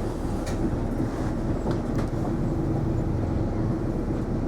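Isuzu Erga non-step city bus heard from inside the passenger cabin, a steady drone of engine and road noise with a constant low hum.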